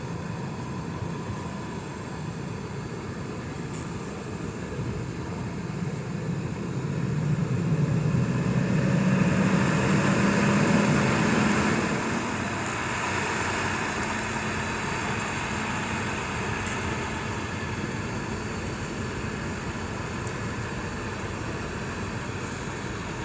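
Boeing 717's Rolls-Royce BR715 jet engines running with a steady hum, swelling louder for a few seconds about a third of the way in, then settling back.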